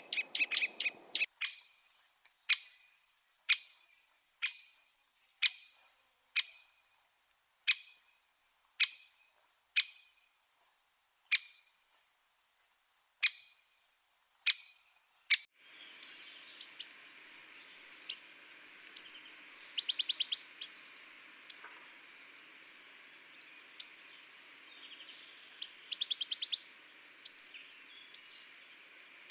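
Garden songbirds calling: for about fifteen seconds a single sharp call note repeats about once a second, then a busier mix of high chirps and short rapid trills takes over.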